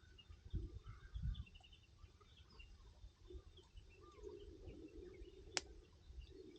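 Small birds chirping and twittering faintly, with one sharp pop from the wood fire about five and a half seconds in and a couple of low thumps near the start.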